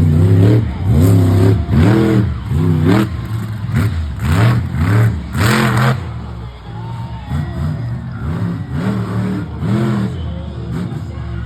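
Monster truck engine revving in repeated throttle blips, the pitch rising and falling about once a second. The revs are strongest in the first half, then lighter.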